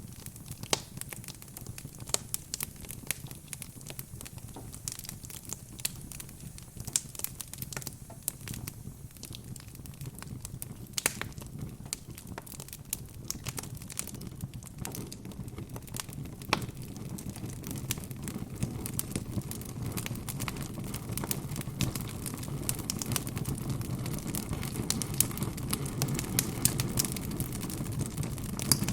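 Wood fire in a fireplace crackling, with frequent irregular sharp pops over a low steady rumble of the flames. The rumble grows a little louder in the second half.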